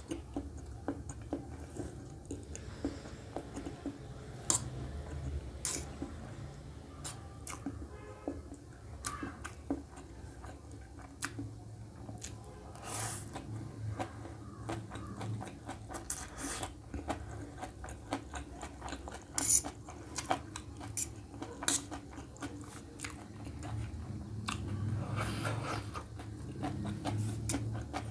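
Close-up chewing of a mouthful of stir-fried noodles, with wet mouth sounds, a short sucking-in of noodles around the middle, and sharp clicks of a fork against a steel plate.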